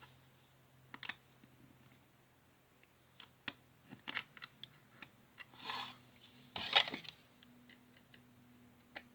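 Small plastic figure pieces clicking and tapping as they are handled and fitted together, with a couple of short scrapes or rustles about six and seven seconds in, the second the loudest.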